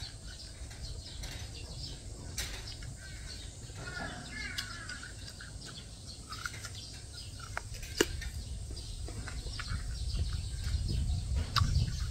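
Birds chirping faintly and intermittently over a steady low rumble, with a few sharp clicks, the loudest about two-thirds of the way through.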